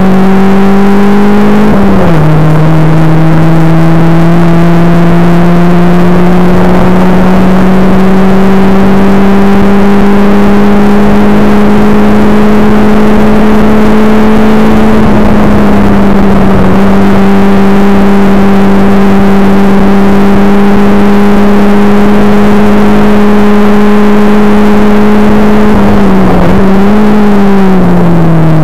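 Caterham sports car's engine heard from inside the open cockpit, running hard and very loud, with wind and road noise underneath. The engine note drops sharply about two seconds in, then climbs slowly through long stretches, dips briefly around the middle, and wavers and falls near the end.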